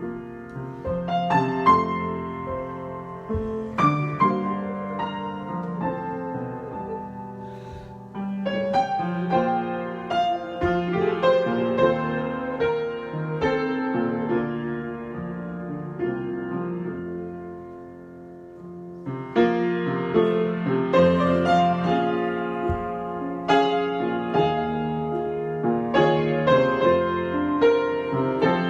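Solo piano improvisation: struck chords and melody notes ringing and decaying. It eases into a softer stretch, then picks up into louder, busier playing about two-thirds of the way through.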